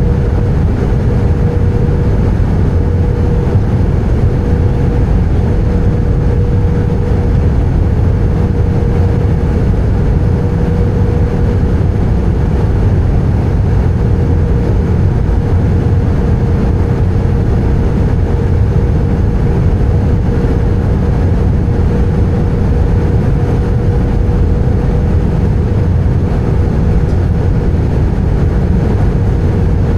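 Airbus A320 cabin noise in flight, heard from a window seat: a steady low roar of the engines and airflow over the fuselage, with a steady mid-pitched tone running through it.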